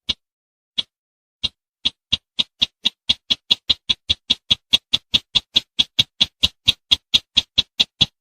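Recorded call of the bush bird sold as 'sintar semak', played as a hunting lure: a series of short, sharp notes that speed up from about one a second to a quick run of about five a second, then keep that pace.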